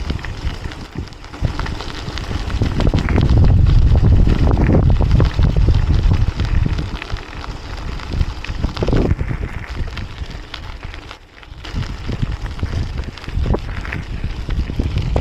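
Wind buffeting the microphone during a mountain-bike ride, with many short knocks and rattles. The rumble swells about three seconds in and eases off by six, with a brief lull near eleven seconds.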